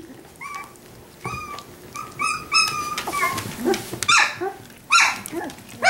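Young Australian Labradoodle puppies yipping and barking in play: a string of short, high calls, with two louder barks about four and five seconds in.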